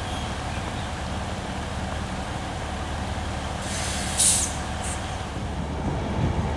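Alishan Forest Railway train standing or running with a steady low hum, and a short, loud hiss of released air or steam about four seconds in.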